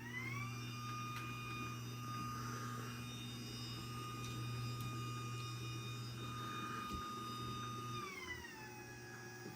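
Craftsman 139.57915 garage door opener running a close cycle: the motor whine rises in pitch as it starts, holds steady over a low hum, then drops in pitch about eight seconds in as it slows toward its stop.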